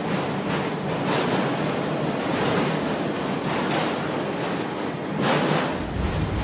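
Freight train of autorack cars rolling past at close range: a steady rush of steel wheels on rail, with scattered sharp clicks as wheels cross rail joints. Near the end, wind buffets the microphone with a low rumble.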